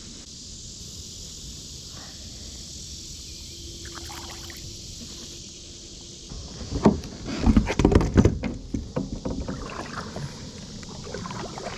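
Kayak on the water: a steady outdoor hiss, then about seven seconds in a cluster of loud irregular knocks and splashing against the hull, with lighter knocks after.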